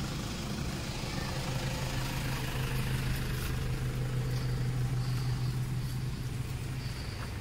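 Motor vehicle engine idling, a steady low hum that stops shortly before the end. A few faint high-pitched chirps sound over it in the second half.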